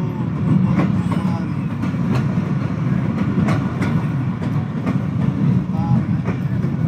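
Passenger train coaches running along the track: a steady low rumble with irregular clicks from the wheels over rail joints.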